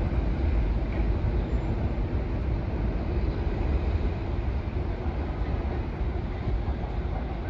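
Metro-North commuter train running through the station, a steady low rumble that eases slightly toward the end.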